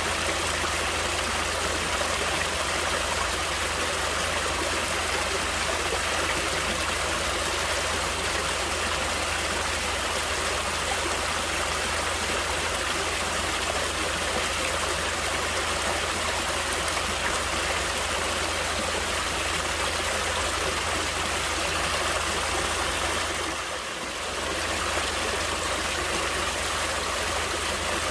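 Running water of a stream, a steady rush and babble that dips briefly near the end.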